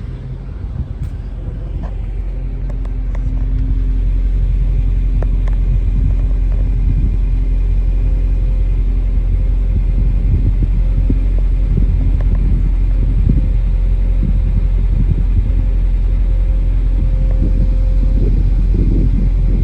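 Mercedes-Benz CLK 500's 5.0-litre V8 idling just after a cold start, a steady low rumble that grows louder over the first few seconds and then holds even.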